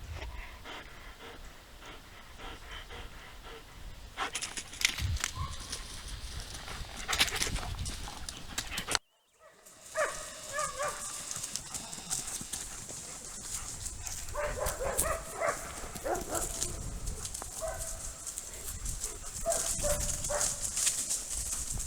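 German Shepherd dogs moving about, with scattered thumps and rustling and a few short pitched vocal sounds. The sound drops out completely for about half a second around nine seconds in, and a steady high hiss runs under the second half.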